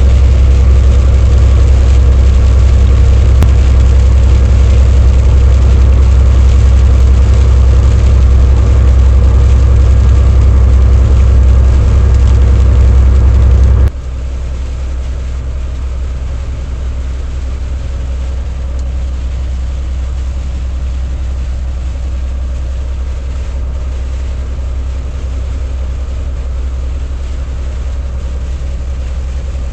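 Heavy truck engine running steadily with a deep drone; about halfway through the sound drops suddenly to a quieter, steady level.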